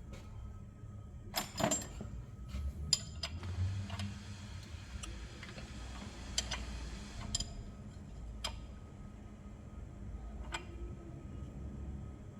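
Scattered metallic clicks and knocks as a BMW 328i's four-cylinder engine is turned over by hand at the crankshaft with a wrench, after a timing chain replacement, to check that the timing comes back into line.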